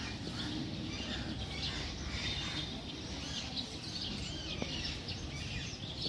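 Small birds chirping: many short, high chirps scattered throughout, over a steady low background hum of outdoor noise.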